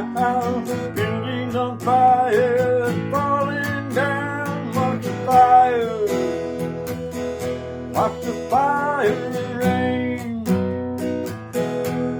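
Strummed acoustic guitar playing a rock song, with a bending melody line carried over the chords in short phrases.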